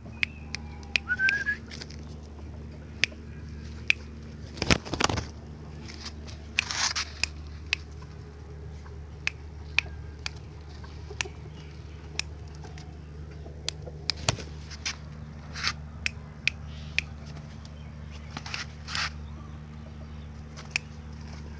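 Chickens in a pen: scattered sharp clicks and short rustling bursts, with one brief rising chirp near the start, over a steady low hum.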